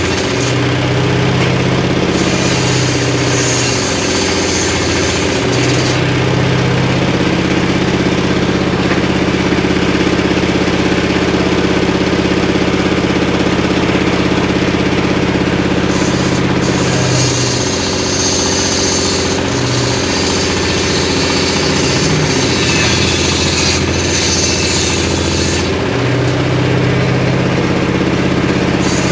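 Homemade circular saw rig running steadily, driven by an engine, with the machine's note shifting several times as the load changes while short pieces of wood are ripped.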